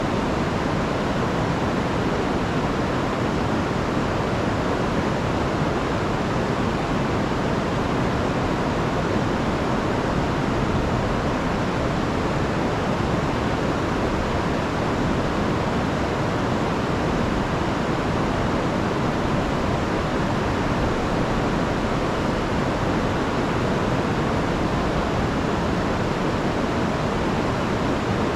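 Rain-swollen river rushing steadily, a constant full roar of fast water with no breaks or changes.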